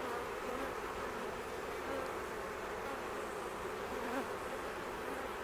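Steady buzzing of a honey bee swarm as the bees march into the hive, many standing with abdomens raised and fanning their wings at the entrance, which the beekeeper reads as the sign that the queen is inside.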